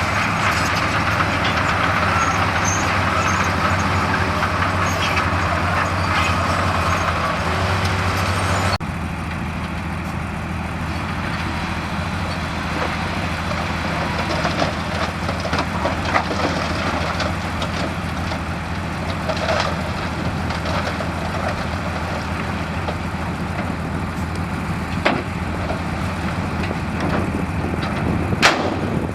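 Heavy diesel earthmoving machinery running steadily. About nine seconds in, the sound cuts abruptly to a slightly quieter stretch where the engine keeps running among scattered knocks and clatter, with a sharp bang near the end.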